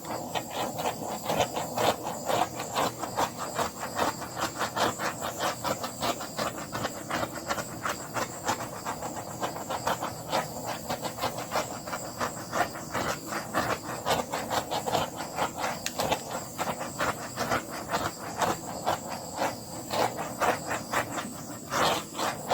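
Handheld torch flame hissing steadily with a fast crackle as it is passed over wet acrylic paint to pop air bubbles.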